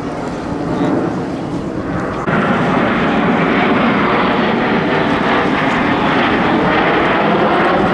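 Jet noise from the Frecce Tricolori's Aermacchi MB-339 PAN jet trainers in flight, a steady rushing sound that jumps suddenly louder a little over two seconds in, with a faint falling whine in the middle.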